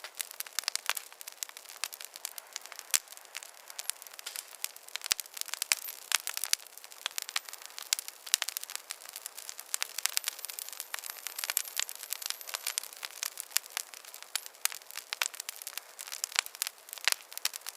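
Campfire wood burning and crackling, with frequent sharp, irregular pops and snaps over a soft steady hiss.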